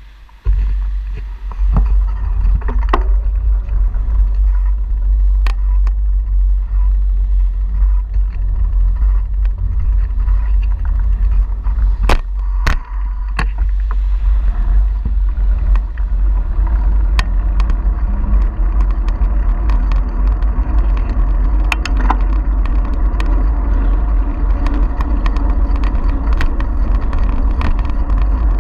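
Wind buffeting the GoPro's microphone while cycling: a loud, steady low rumble with tyre and road noise, broken by scattered sharp clicks and rattles from the bike.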